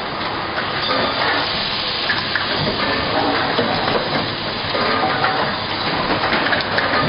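Fully automatic plastic bottle making machine running, giving a steady, dense mechanical noise.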